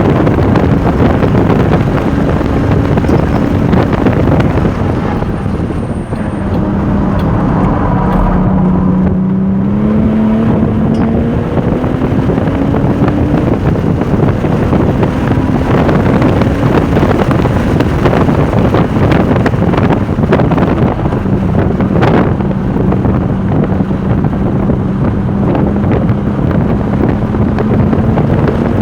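Porsche 996 Turbo's twin-turbocharged flat-six heard from inside the car at speed on a race track, with heavy wind noise. The engine note drops about five seconds in, then climbs again as the car accelerates, and rises slowly once more near the end. A single sharp click comes about two-thirds of the way through.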